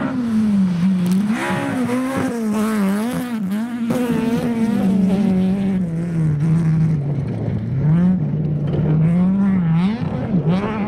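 Rally car engine being driven hard on a gravel stage, its pitch rising and falling repeatedly as the driver works the throttle and gears.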